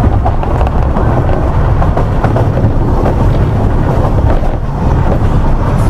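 Onboard running noise of a narrow-gauge Ffestiniog Railway train on the move: a loud, steady low rumble from the wheels and carriage, with rapid, irregular clicks and rattles running through it.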